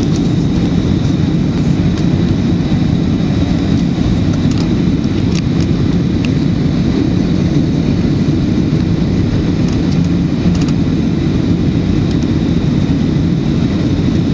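Steady cabin noise inside a Boeing 737-900 on approach: the CFM56-7B engines and the rush of air past the fuselage make an even low rumble, with a faint steady high-pitched tone above it.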